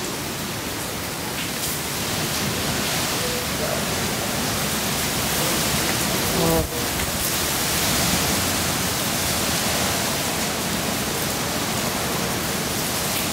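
Heavy hurricane rain pouring steadily, a dense even hiss with little wind. A brief louder blip breaks it about halfway through.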